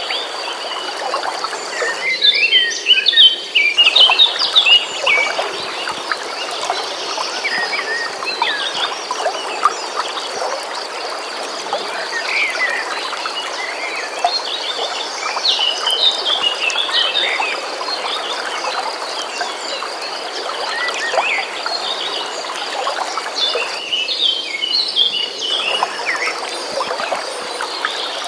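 Flowing stream water under songbirds chirping in quick bursts, loudest a few seconds in and again around the middle and near the end, with a steady high-pitched trill running underneath.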